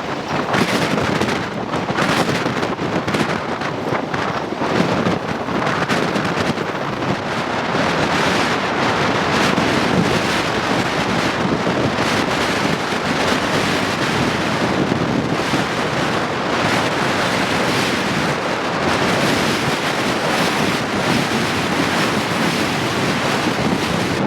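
Rough ocean surf breaking and washing in a nor'easter, with strong gusty wind buffeting the microphone; the noise swells and eases continuously.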